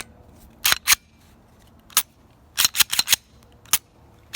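Glock 17 pistol being reassembled after a recoil spring and stainless steel guide rod swap: a series of sharp metallic clicks and snaps from the slide and frame parts, with a quick run of four or five clicks about three seconds in.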